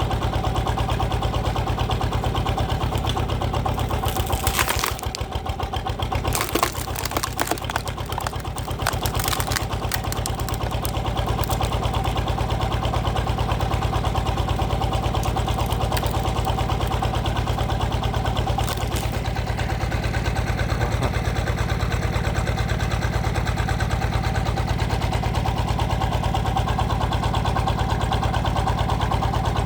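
A power tiller's single-cylinder diesel engine runs steadily, driving a hydraulic log splitter. From about 4 to 11 seconds in there is a run of sharp cracks and snaps as a log splits.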